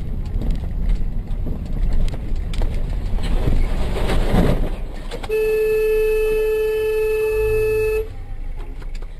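Road and vehicle rumble, then about five seconds in a vehicle horn sounds one steady note, held for nearly three seconds before cutting off.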